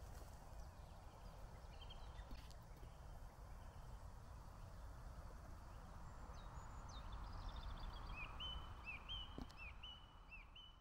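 A small bird singing a run of short, repeated chirping notes, about two a second, in the second half, over a faint steady background hiss.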